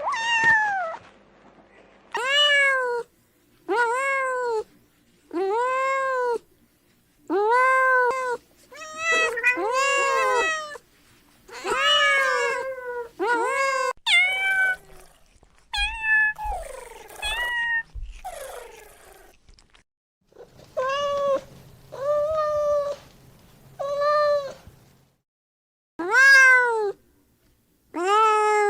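Domestic cat meowing over and over, a long run of separate meows that each rise and fall in pitch, one every second or two, some overlapping around the middle.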